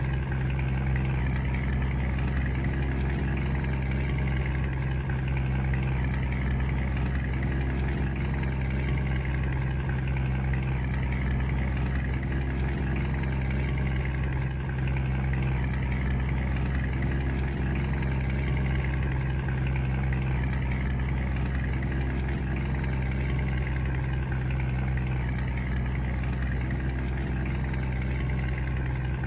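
Scania G124 truck's six-cylinder diesel engine running at an even, unchanging speed.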